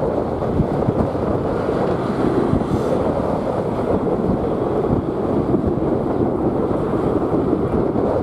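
Strong wind buffeting the microphone: a steady rushing noise.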